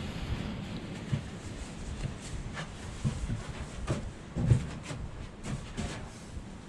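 Scattered knocks and clinks of metal parts and tools being handled on a workbench, with one louder knock about halfway through.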